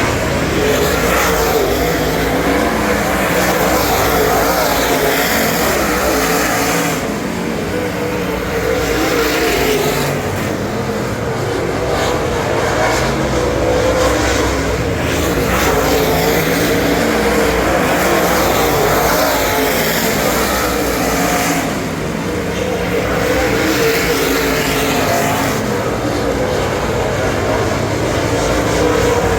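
Super late model dirt race car's 422 cubic-inch Ford V8 running hard at racing speed, its note easing off briefly twice when the throttle is lifted.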